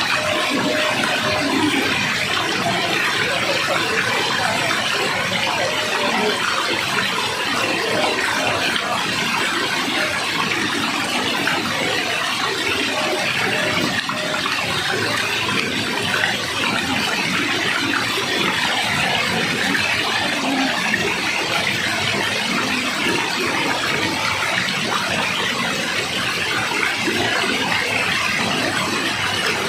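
Waterfall: falling water rushing steadily, an even hiss that does not change.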